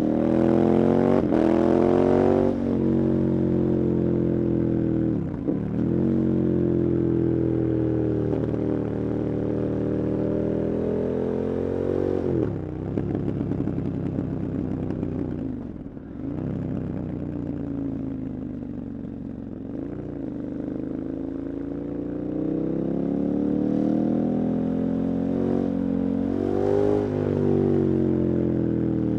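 KTM 1290 Super Adventure's V-twin engine under hard riding, the revs climbing under throttle and dropping sharply at each gear change or throttle lift, several times over.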